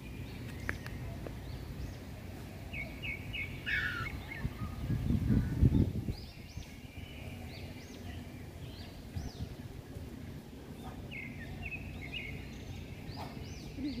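Birds singing in the trees: runs of short repeated chirps and high arched whistled notes, over a steady low outdoor rumble. A brief louder low rumble comes about five seconds in.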